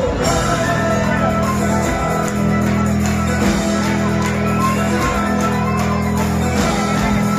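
A bluegrass-style band playing a rock song live through a PA, loud and steady, with a bass line changing note about every second and a half.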